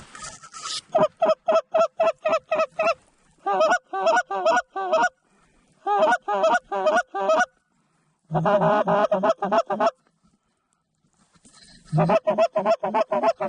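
Mallard duck call blown by a hunter: several runs of loud, evenly spaced quacks at about four a second, with a faster run of chatter about two-thirds of the way through, calling to circling mallards.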